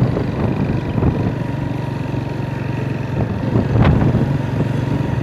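Motorcycle engine running steadily while riding along, with a single short click about four seconds in.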